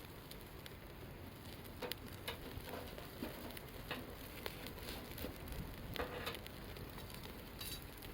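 Wood campfire crackling, with scattered sharp pops and a few brief hissing spurts over a steady low rush.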